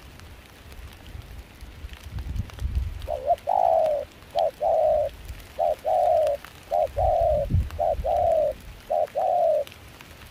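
Spotted dove cooing: a run of about six two-part coos, each a short note followed by a longer one, repeated roughly once a second, with a low rumble of wind and rain underneath.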